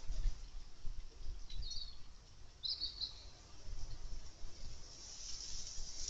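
Short, high garden-bird chirps, one a little under two seconds in and a brief cluster about three seconds in, over a faint low rumble of wind on the microphone.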